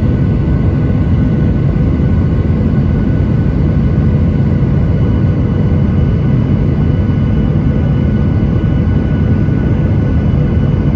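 Boeing 737-900ER airliner running steadily on its CFM56 turbofans: a constant low rumble with a steady whine of several even tones above it.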